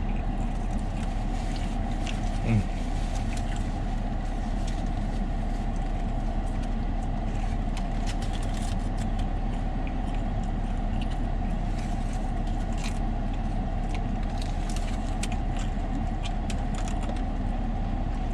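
Steady hum of a car's engine idling, heard from inside the cabin, with scattered small clicks and crackles.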